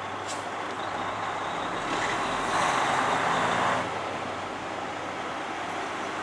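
Semi truck running steadily as it moves through a rail yard. A louder rushing noise swells for about a second near the middle.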